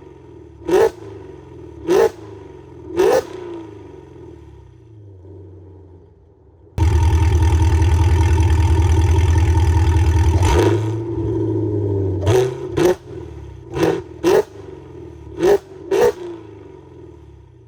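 Chevrolet Camaro ZL1's supercharged V8 being revved through its exhaust: three quick throttle blips over an idle, then about seven seconds in a loud rev held steady for about four seconds, followed by more quick blips, some in pairs, settling back to idle between them.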